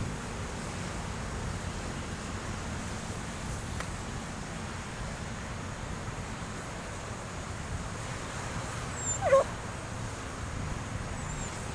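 Steady background noise, with a dog giving one short, high yelp about nine seconds in.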